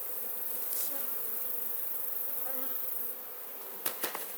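Honeybee colony buzzing at an open hive, a steady hum, with two sharp knocks near the end.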